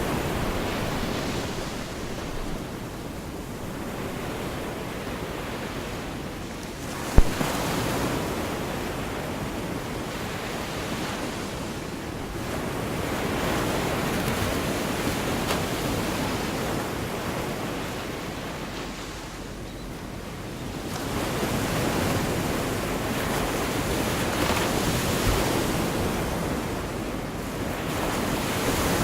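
Gulf of Mexico surf washing onto the beach, swelling and ebbing every several seconds. A single sharp tap about seven seconds in.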